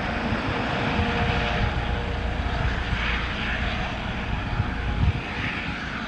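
An airliner's engines heard as it passes close by the runway: a steady, fairly loud engine noise with a deep rumble.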